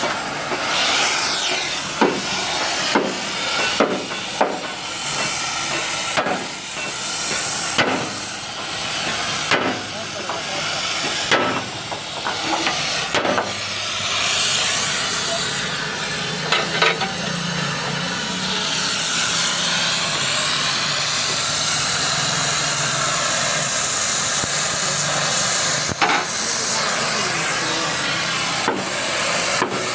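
Riveting work on a Hino truck: a loud, steady hiss with sharp metal hammer strikes at irregular intervals, roughly one every second or two in the first half and fewer later.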